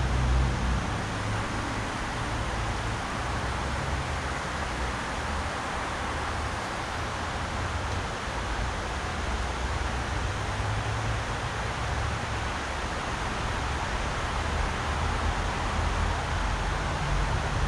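Mountain river rushing over rocks: a steady, even hiss of flowing water, with a low rumble at the start and again near the end.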